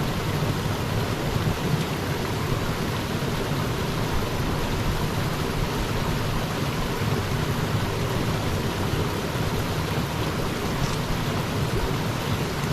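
Mountain river water rushing steadily over rocks, an even, unbroken noise.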